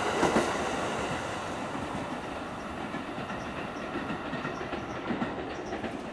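Electric commuter train pulling out of the station, its wheels clacking over rail joints as the last cars pass, with a few sharp clacks in the first half second. The sound then fades steadily as the train moves away.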